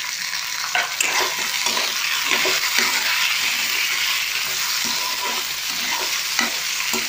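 Shelled green peas frying in hot oil in a kadhai, sizzling steadily while a spatula stirs them and scrapes across the pan.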